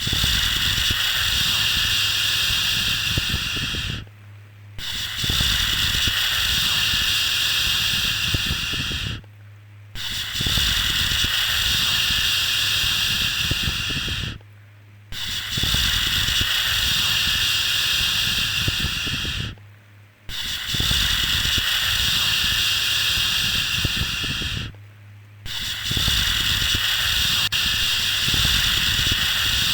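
Soothing shushing 'shhh' sound for a baby, each long hiss held about four and a half seconds, then breaking off for a short pause before the next, in a steady repeat about every five seconds.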